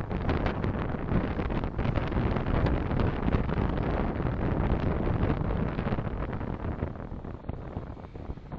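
Driving noise from a car dashcam: a steady low rumble of road and wind noise that eases off over the last couple of seconds.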